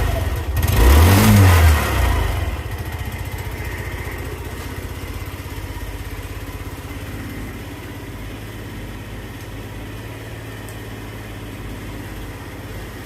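Yamaha Majesty 125 FI scooter's single-cylinder four-stroke engine revved once about a second in, then settling back to a steady idle.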